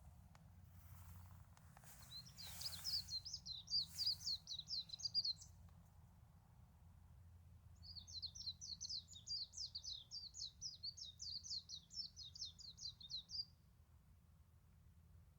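A small songbird singing two long trills of quick, sharp repeated notes, about five a second, the first about two seconds in and the second starting about eight seconds in and running some five seconds. A steady low hum sits underneath.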